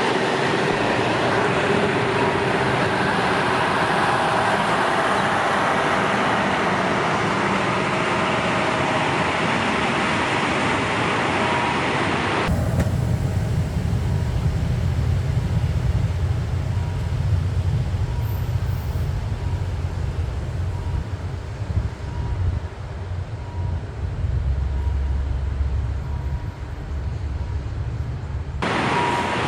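KiHa 183 diesel railcar train running: a broad rushing noise of the moving train, then, after a cut about twelve seconds in, a deep low rumble.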